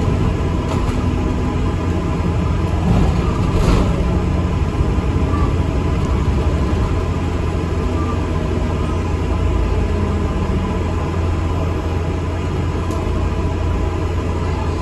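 An ADL Enviro 400 MMC double-decker bus on the move, heard from inside: a steady low engine and road rumble, with one brief louder rattle about four seconds in.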